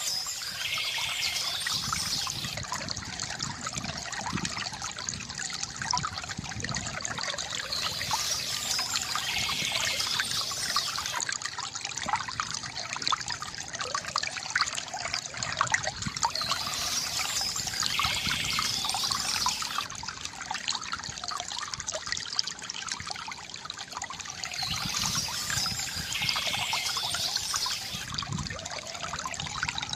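Water trickling and gurgling steadily from a bamboo fountain, with bursts of bird chirping coming back about every eight seconds.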